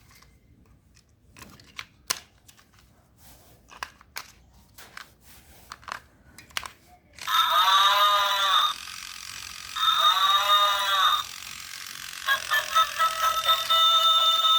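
Faint clicks and rustles of small objects being handled, then about seven seconds in a battery toy's electronic sound chip starts: two loud warbling electronic tones, each about a second and a half long, followed by a tinny beeping tune.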